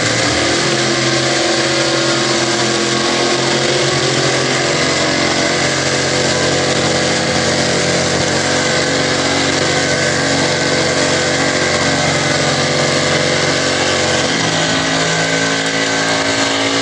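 Car engine idling steadily, its note shifting slightly near the end.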